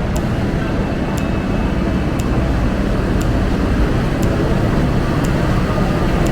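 Passenger train running, a steady rumbling noise with a faint high tick about once a second.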